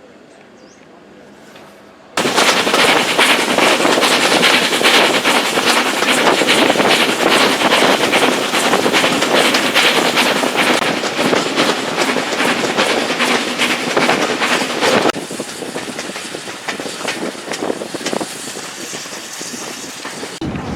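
A train passing close by, its wheels clattering rapidly over the rail joints. It starts abruptly a couple of seconds in and falls quieter about two-thirds of the way through.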